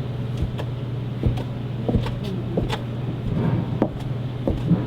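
A steady low hum with scattered short knocks and clicks over it.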